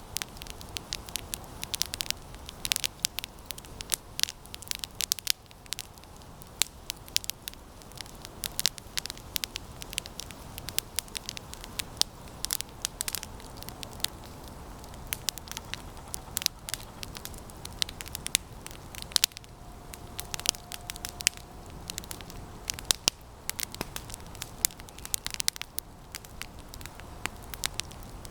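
Campfire of resinous pine branches burning, with dense, irregular crackling and sharp pops.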